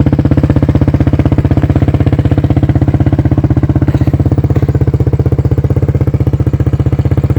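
Kawasaki KX250 dirt bike engine idling steadily at a constant pitch, loud, just after a cold start on choke.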